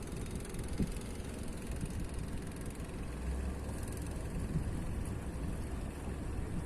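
Fishing boat engine running with a steady low drone that grows stronger about three seconds in, over a constant noisy hiss.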